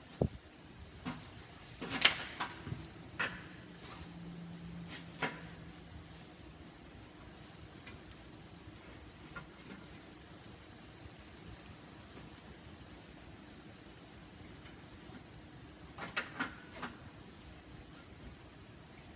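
Scattered sharp knocks and clanks of a 1982 Honda CM450E's exhaust being hit and pulled on to work it free from the bike: a cluster about two seconds in, one more a few seconds later and another cluster near the end, with quiet stretches between.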